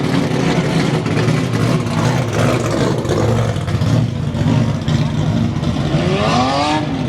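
Muscle car engines running with a steady low rumble, and one engine revving up and back down near the end, over background crowd chatter.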